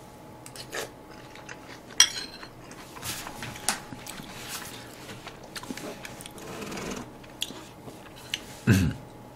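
A person chewing a mouthful of food, with scattered light clicks and clinks of metal cutlery against dishes. A brief vocal sound near the end.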